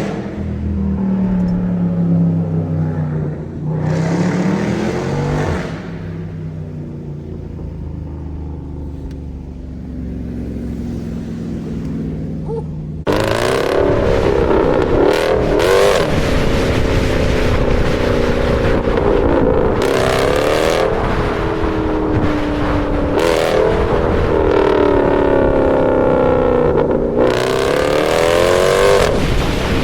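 Jeep SRT's V8 engine, heard from inside the cabin. It runs at part throttle with one brief rev, then about 13 seconds in it opens up at full throttle, much louder. Its pitch climbs, drops at each upshift and climbs again, through several gears.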